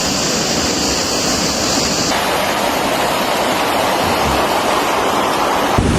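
Steady rushing noise of floodwater, cut between clips: the sound shifts abruptly about two seconds in, and near the end gives way to low gusting wind on the microphone.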